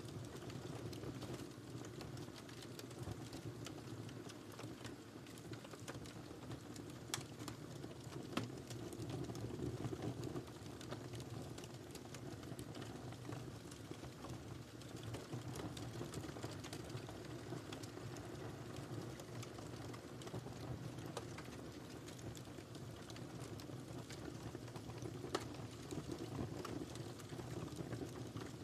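Wood fire crackling in a fireplace: a steady low rumble of flames with many small crackles and a few sharper pops, two of them about a quarter of the way in and one near the end.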